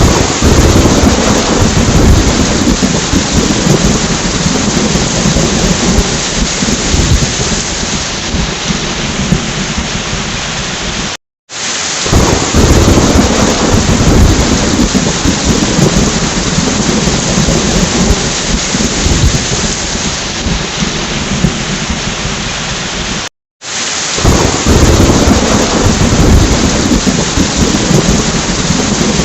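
Steady heavy rain with thunder rumbling low underneath, swelling a little after each restart. The recording cuts out briefly twice, about 11 and 23 seconds in, and starts again: a loop of about 12 seconds repeating.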